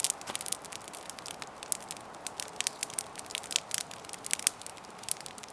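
Campfire burning: wood crackling and popping in quick irregular snaps over a soft steady hiss of flame.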